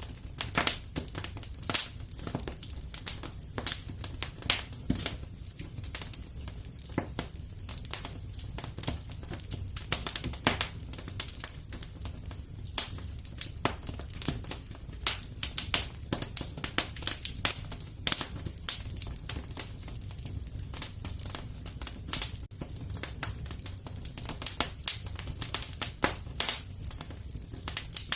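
Fireplace fire crackling, with irregular sharp pops several times a second over a low steady rumble.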